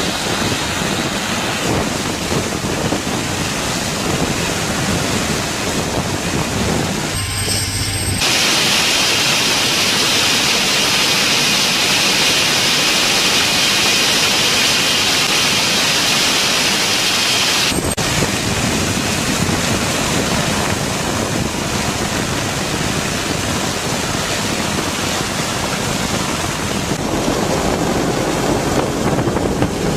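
Loud, steady rushing noise of a helicopter heard from on board, with no clear rotor beat. Its tone changes abruptly about 8 seconds in and again about 18 seconds in.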